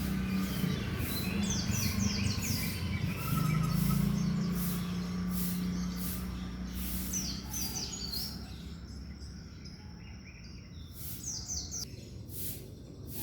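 An oriental magpie-robin (white-breasted kacer daput) singing in bursts of quick, falling high notes, over a steady low hum.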